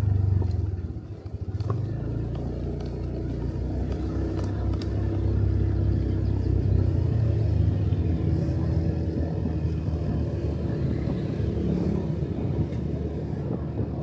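Motorcycle engine running while riding, with road and wind noise; the engine sound dips briefly about a second in, then runs on steadily.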